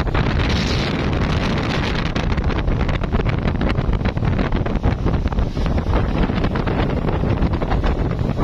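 Speedboat running at speed: a loud, steady engine and water rush, with wind buffeting the microphone. A brief louder hiss rises near the start.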